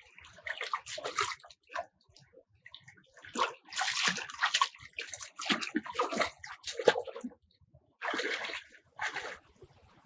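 Water splashing and sloshing in irregular bursts, with sudden quiet gaps between them.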